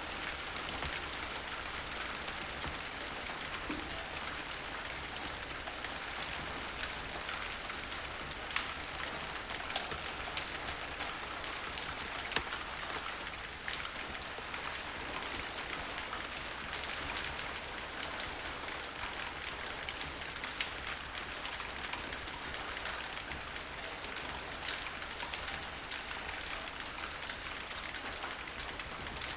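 Steady rainfall: a dense, even hiss of falling drops, with sharp ticks of single drops striking a surface scattered through it.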